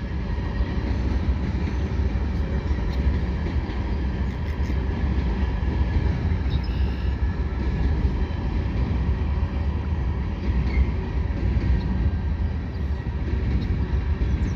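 Freight train cars rolling past at speed: a steady, loud low rumble of steel wheels on rail, with no locomotive sound.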